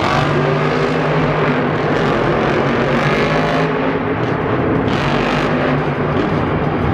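Monster truck engine revving hard, its pitch rising and falling.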